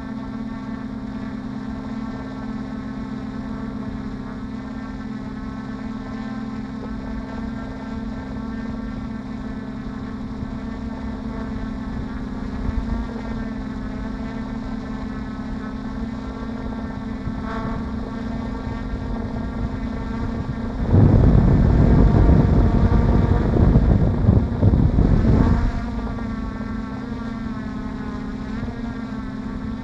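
Brushless motors and propellers of a DJI F450 Flamewheel quadcopter humming steadily, their pitch wavering slightly as the throttle shifts, heard from the camera carried on the drone. About two-thirds of the way through, wind buffets the microphone for about four seconds, louder than the motors.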